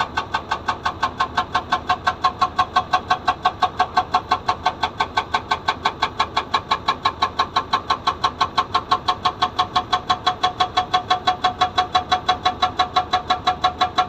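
Hydraulic rock breaker on an excavator hammering rock, a steady, even run of about five metallic blows a second.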